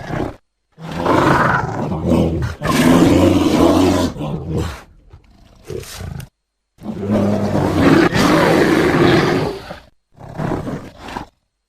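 Bear roaring in a series of low, loud calls lasting one to three seconds each, separated by sudden silent gaps.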